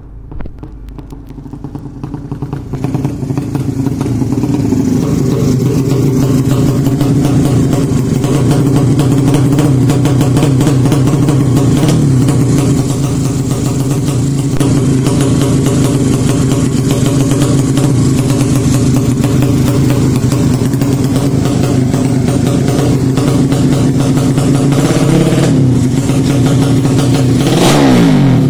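A 200cc motorcycle engine building up to a steady, loud run over the first few seconds, then holding an even idle, with a quick rev near the end.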